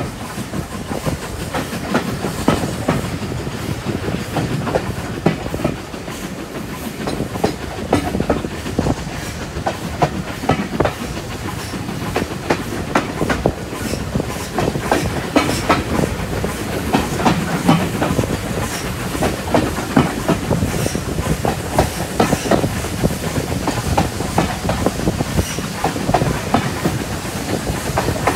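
Passenger coach of a steam-hauled train running along the line: a steady rumble with the wheels clattering over rail joints, many sharp clicks throughout.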